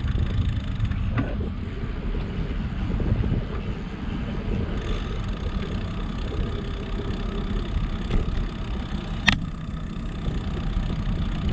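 Steady low rumble of wind and road noise from riding a bicycle, with a sharp click about nine seconds in.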